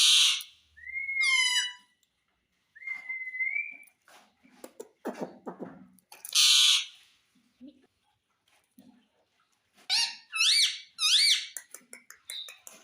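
Indian ringneck parakeet calling: two harsh screeches, gliding whistles, and a quick run of chirping notes near the end, with small clicks between.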